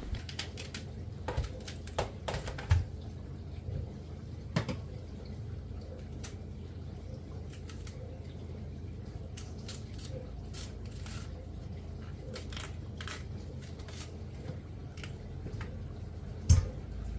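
Kitchen handling noises: scattered light clicks and taps of utensils and dishes over a steady low hum, with a louder knock near the end.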